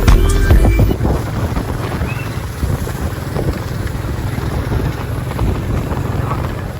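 Background music cuts off about a second in, giving way to a steady rushing of wind buffeting the microphone.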